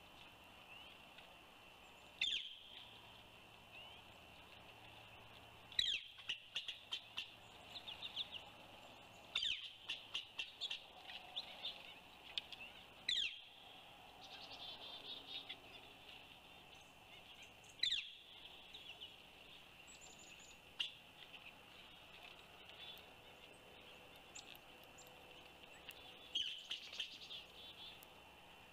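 Small birds calling at a feeding area: a sharp downward-sweeping call every few seconds, each followed by a quick run of short chirps, with scattered softer chirps between.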